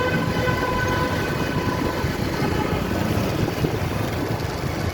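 Steady engine rumble, with a high steady tone over it for the first two seconds that then fades away.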